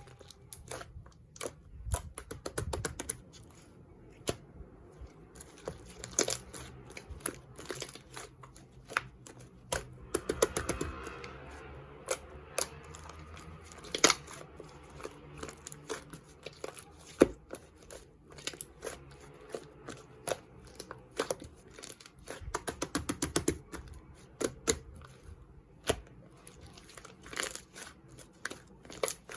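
Slime being squeezed, stretched and folded by hand, giving irregular sharp clicks, pops and crackles, with denser bursts of crackling about a third of the way in and again near the end.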